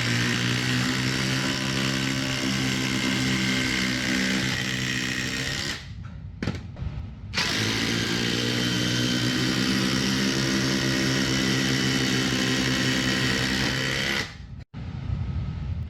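Two cordless impact drivers, a Ryobi brushed and a Ryobi brushless, hammering as they race to drive 7-inch screws into wood. The rattle runs about six seconds, stops for a second or so, then runs again for about seven seconds before cutting off.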